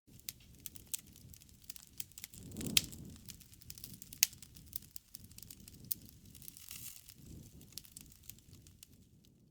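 Wood fire crackling: irregular sharp pops and snaps over a soft, low rush of burning. The loudest pops come about three and four seconds in.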